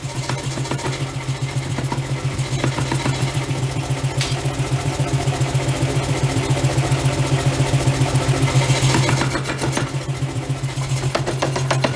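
Forge-shop machinery running: a steady low hum with a fast, even pulse of about eight beats a second, and a few sharp clicks over it.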